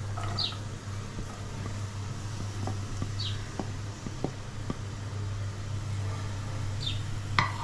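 Chopped onions frying in hot oil in a pan over a steady low hum, with a few light taps, likely of the stirring spoon against the pan. Three short high chirps sound about three seconds apart.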